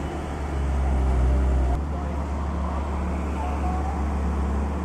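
Excavator's diesel engine running with a steady low drone; the sound shifts abruptly about two seconds in.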